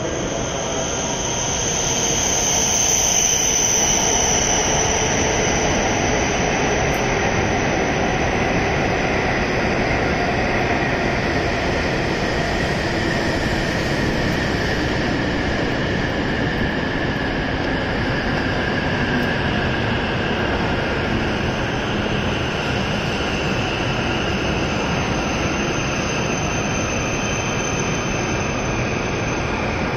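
E7 series Shinkansen train arriving along the platform and slowing to a stop: steady running noise with a high electric whine, loudest a few seconds in as the front of the train passes.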